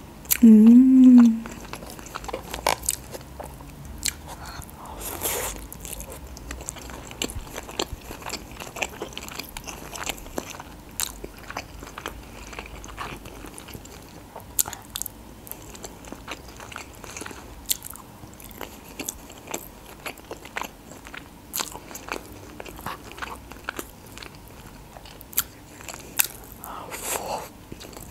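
Close-miked chewing and lip-smacking of a person eating chicken wok noodles with chopsticks, many small wet clicks scattered throughout. A short hummed "mmm" with a rise and fall in pitch, about half a second in, is the loudest sound.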